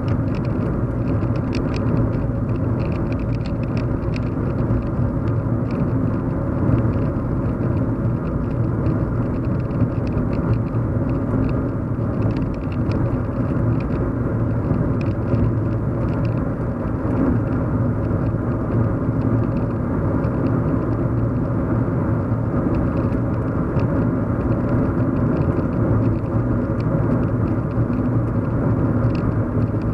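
Steady road hum and rumble of a car driving, heard from inside the cabin: engine and tyre drone with a low hum, and faint light ticks and rattles above it.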